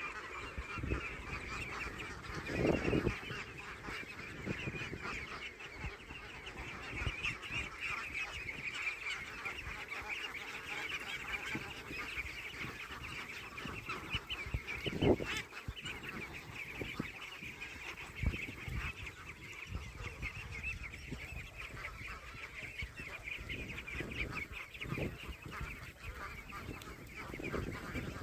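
A flock of domestic waterfowl calling continuously, a dense honking chatter, with a couple of low thumps about three seconds and fifteen seconds in.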